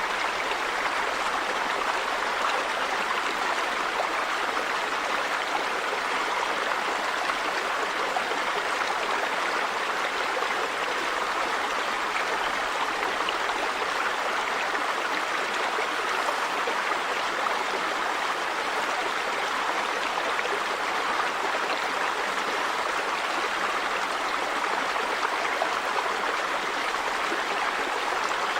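River water running over stones, a steady rushing and babbling.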